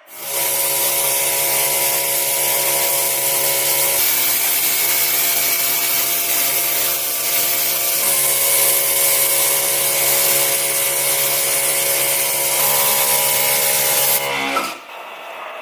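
A small electric motor running steadily under load, its even hum topped by a loud, continuous hiss; it switches on at the start and stops about a second before the end.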